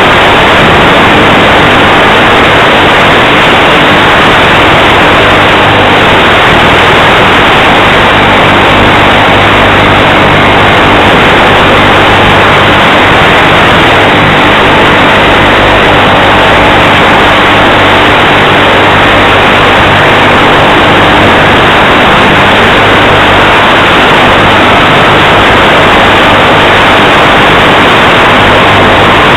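Onboard audio of an FPV radio-controlled plane in flight: a steady, loud hiss of wind and static over a low, even drone from the plane's motor.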